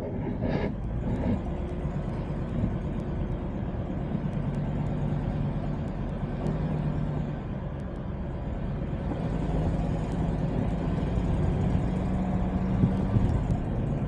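Car on the move: a steady low rumble of road and engine noise, with an engine hum that shifts in pitch a few times. A short knock comes just after the start.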